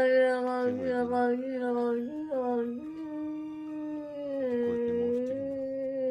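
A dog howling in one long drawn-out note that steps slightly up and down in pitch.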